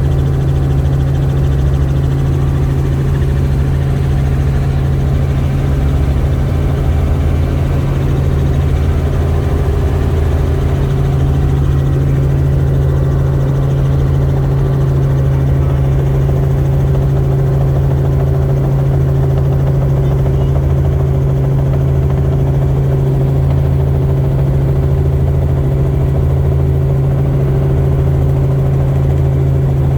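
Helicopter in flight: a loud, steady engine-and-rotor drone with a strong low hum and a pulsing beat underneath.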